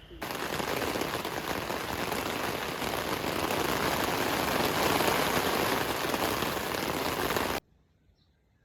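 Heavy rain pouring down in a dense, steady hiss that starts suddenly and cuts off abruptly after about seven and a half seconds.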